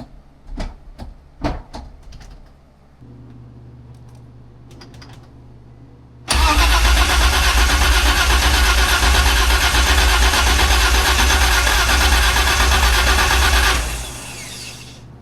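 V12 engine in a BMW E30 turned over on the starter for about seven seconds without firing, its ignition deliberately left disconnected for a first crank. A few clicks near the start and a steady low hum beginning a few seconds before the cranking.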